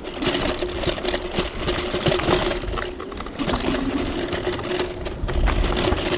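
TRBK-M2 electric hyperscooter riding over a rough dirt trail: a steady motor whine under frequent rattles and knocks from the scooter jolting over the ground.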